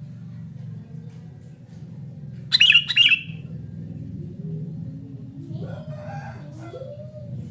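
Sooty-headed bulbul (kutilang) giving two loud, sharp calls close together about two and a half seconds in. Later a lower, wavering call slides up and down in the background.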